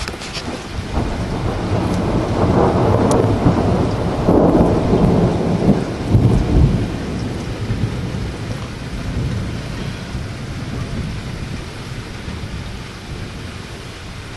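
A long roll of thunder builds about a second in, peaks over the next few seconds and rumbles away, over steady rain.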